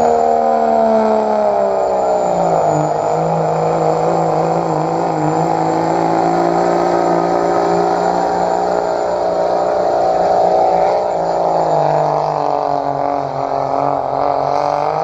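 Diesel pickup truck engine running hard under load while pulling the sled, its pitch dropping about two seconds in and then holding fairly steady.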